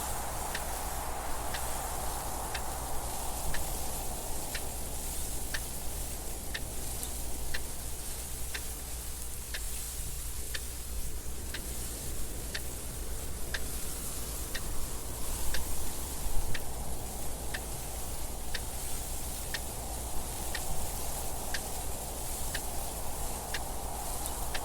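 Clock ticking steadily, a little faster than once a second, over wind noise that swells and fades.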